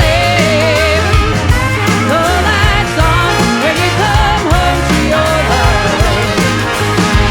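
Full rock band playing: drums and bass under a lead melody that bends in pitch with vibrato.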